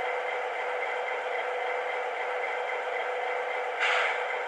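Model diesel locomotive's onboard sound system playing a steady diesel engine sound through a small speaker, thin and without bass, with one short air hiss near the end.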